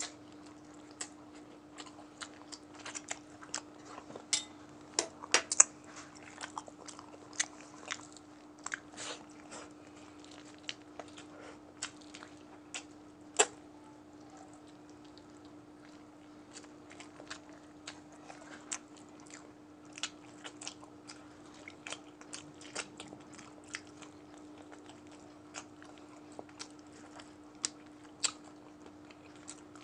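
Close-miked mukbang eating: wet chewing and sharp lip-smacking mouth clicks from a man eating chicken and rice with his hand. The clicks come irregularly, thin out for a few seconds in the middle, then pick up again.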